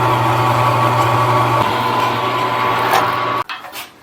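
Mini milling machine's motor and spindle running steadily while a drill bit cuts a hole, a low hum with a higher whine; the motor stops abruptly about three and a half seconds in.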